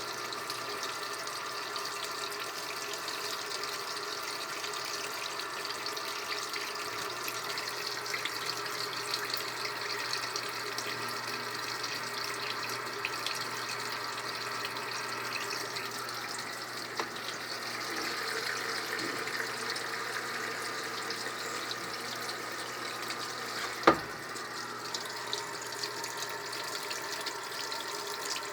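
Water running steadily into the tub of a Brastemp Ative 11 kg top-load washing machine as it fills, flushing powdered stain remover in from the dispenser. A single sharp click sounds late on.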